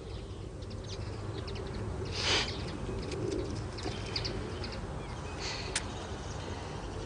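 Birds chirping in short scattered calls over a steady low outdoor rumble, with a brief hiss about two seconds in and a sharp click near the end.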